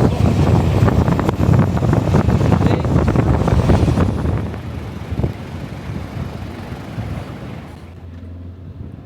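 A vehicle driving off-road over a rough track, with loud rumbling and rattling and wind buffeting the microphone. After about four seconds it eases into a quieter, steadier engine hum.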